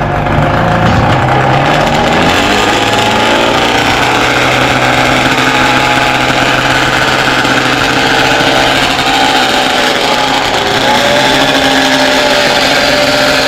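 Suzuki RG500 Gamma four-cylinder 500cc two-stroke disc-valve racing engine in a sprint bike, running loud and fairly steady just off idle, its pitch dipping and then rising a little about ten seconds in.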